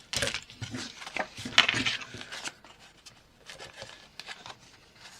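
Paper and card being handled on a craft table: rustling, sliding and light taps, busiest in the first couple of seconds, then a few softer clicks.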